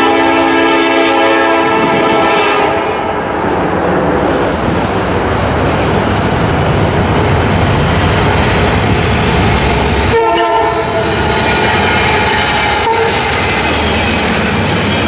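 Norfolk Southern intermodal train: a diesel locomotive horn sounds a steady chord that stops about three seconds in, then the locomotives' engines and wheels grow louder as the train approaches and passes close by.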